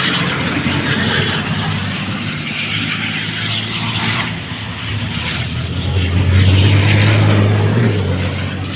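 Racing trucks' engines running on the circuit: a deep, steady engine drone that swells to its loudest about six seconds in and eases near the end.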